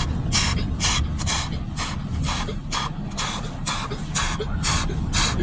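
Automatic car wash heard from inside the car: short bursts of spray or wash equipment hitting the car, about two a second in an uneven rhythm, over a steady low rumble of the wash machinery.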